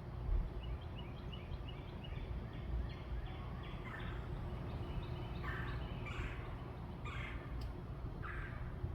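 Backyard birds calling: a quick run of short, high repeated notes, then four louder, harsher calls about a second apart, over a steady low background rumble.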